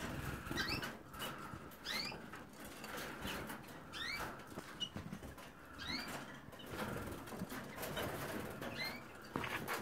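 Young colour canaries calling with short, rising chirps roughly every two seconds, mixed with wing flutters and small clicks of birds moving about.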